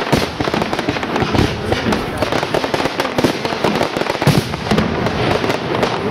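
Aerial fireworks: many shells bursting and crackling in quick succession, with a few heavier bangs among them.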